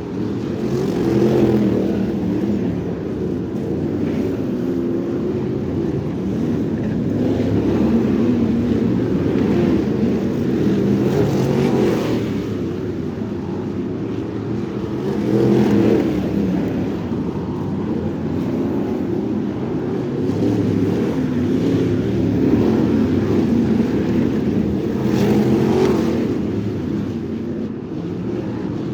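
Crate sprint car engine running hard at racing speed, the sound rising and easing every few seconds with the throttle through the laps, dull and muffled.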